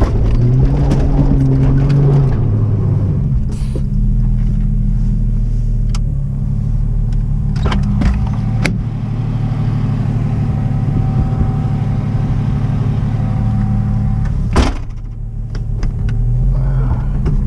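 1991 Jeep Cherokee XJ engine running under load in four-wheel high as the Jeep tries to climb a steep dirt hill, its note higher for the first couple of seconds and then settling lower and steady. A single sharp knock comes near the end.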